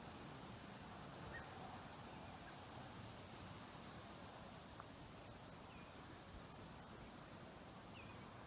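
Quiet outdoor ambience with a few faint, scattered bird chirps.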